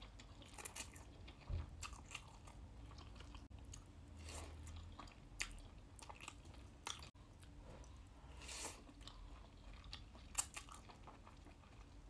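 Close-up eating sounds: vermicelli noodles being chewed and slurped, a string of soft, wet mouth clicks and smacks.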